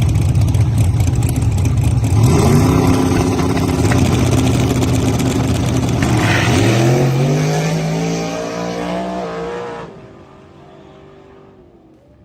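Drag racing cars at full throttle down the strip: a loud engine rumble gives way to engine pitch that climbs, levels off and climbs again through the gears, then fades away about ten seconds in.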